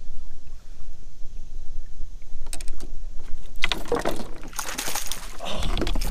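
Wind rumbling on the microphone aboard a fishing kayak. A few sharp clicks come about two and a half seconds in, then a loud stretch of noisy handling or splashing from a little past halfway.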